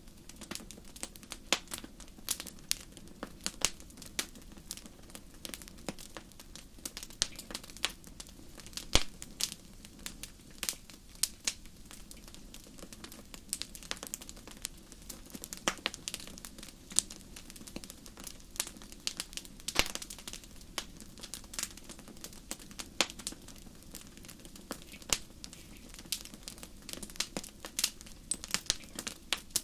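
Wood fire crackling: irregular sharp pops and snaps over a low, soft hiss.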